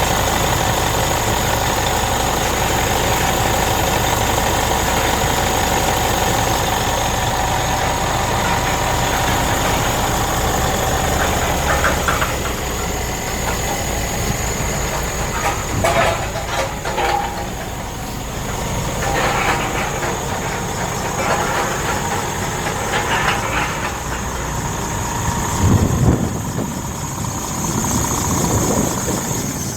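Scania R 490 tractor unit's 13-litre inline-six diesel idling steadily. From about twelve seconds in, the engine sound recedes and a scattering of knocks and clicks comes through over it.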